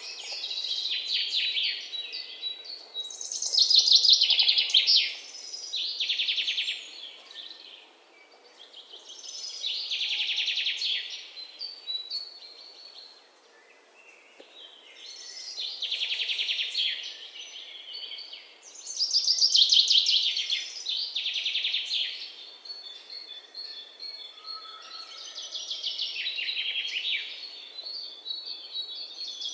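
Songbirds singing outdoors: bouts of fast, rapidly repeated chirping notes, each lasting a second or two, come again every few seconds with quieter spells between, over a faint background hiss.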